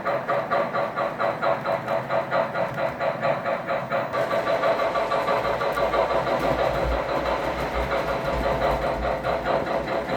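Model train running on a layout, with a steady rhythmic beat about four times a second. A low rumble joins in about four seconds in.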